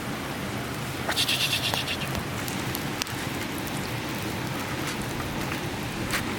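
Wood campfire crackling, with sharp pops over a steady hiss, and a brief rapid rattling run about a second in.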